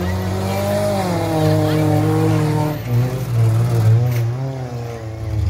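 Demolition derby car engines running and revving in the arena. The pitch drops about a second in, holds steady, then wavers up and down near the end.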